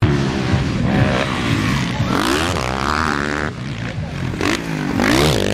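Motocross motorcycle engines revving during a race, their pitch repeatedly climbing and dropping as riders open and close the throttle, with a strong rising rev near the end.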